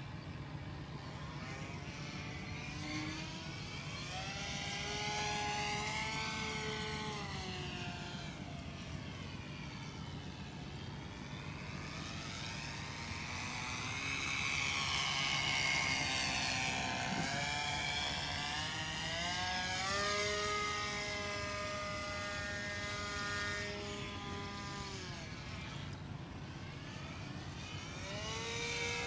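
OS 25FX two-stroke glow engine of a radio-controlled model airplane in flight, its buzz rising and falling in pitch over several passes as the plane flies past and away. The engine runs near full throttle and, with rust in its bearings, sounds off to the owner.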